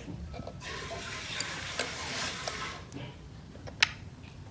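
Soldering iron sizzling on flux or rosin, a crackling hiss lasting about two seconds, with a single sharp click near the end.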